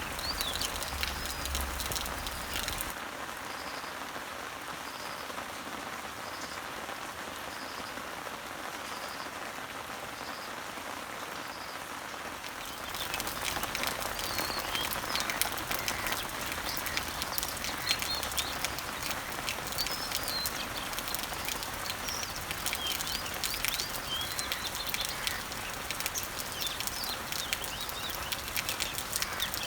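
Rain falling on leaves and trees, a dense steady patter of drops, with birds chirping in the background. About three seconds in, the rain turns quieter for some ten seconds while a faint short note repeats about once a second. It grows louder again around thirteen seconds in, with scattered bird chirps.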